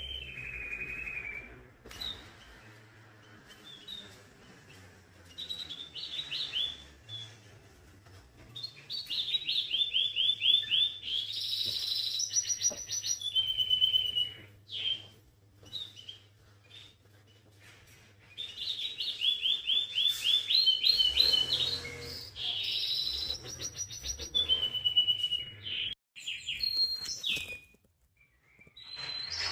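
Songbird singing in phrases of rapid repeated notes and trills, with pauses between phrases; the two longest bouts come about a third of the way in and again past the middle.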